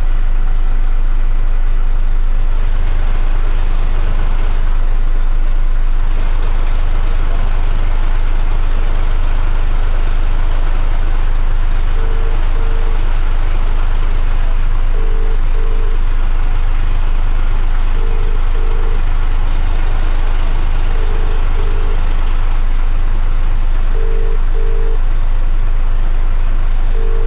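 Heavy truck's engine running with a steady low rumble. From about twelve seconds in, a telephone ring-back tone sounds in double rings every three seconds, six times: an outgoing call ringing unanswered.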